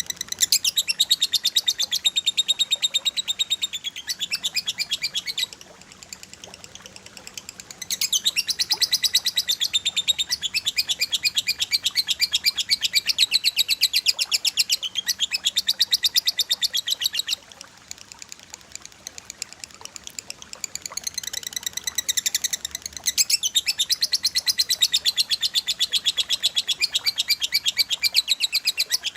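Cililin and lovebird song from a bird-song training recording: long runs of rapid, sharp, high chirps fired in quick succession. The runs break off twice into quieter, sparser chirping before starting again.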